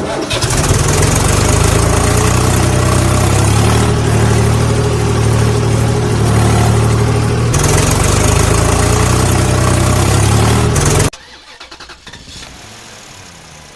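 Engine running with a steady low drone, cutting off suddenly about eleven seconds in.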